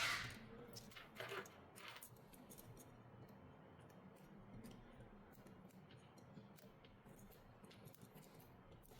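A few short scraping strokes in the first two seconds, then faint scattered small clicks: hand tools working on a smartphone.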